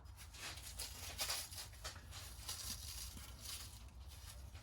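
Faint light clicks and rustles of differential parts being handled, over a low steady hum.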